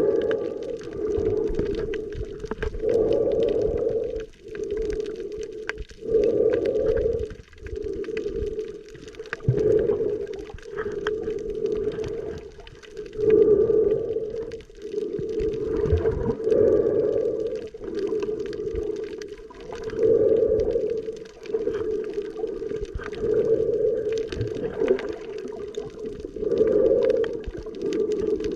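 Muffled underwater sound picked up while snorkeling: a steady low hum that swells and fades every three to four seconds.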